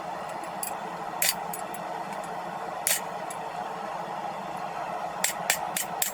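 A forge running with a steady rushing noise, with a few sharp clicks scattered through it, several close together near the end.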